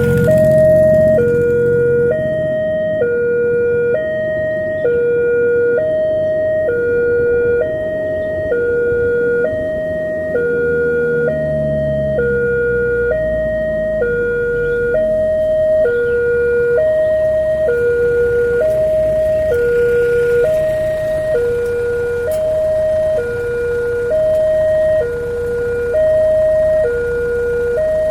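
Railway level-crossing warning alarm sounding: a two-tone electronic signal alternating between a higher and a lower note about once a second, warning that a train is approaching. A low rumble swells and fades about ten to sixteen seconds in.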